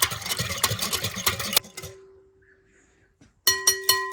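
A utensil whisking a milk, water, sugar and yeast mixture fast in a bowl, a quick rattling clatter that stops about a second and a half in, leaving the bowl ringing with a clear tone. Near the end a few sharp taps on the bowl's rim ring out again.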